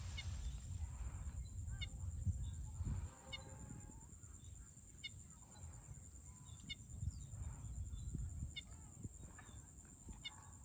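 Birds calling in the open, likely domestic fowl: a short call repeated about every one and a half to two seconds, over a low rumble and a steady high hiss.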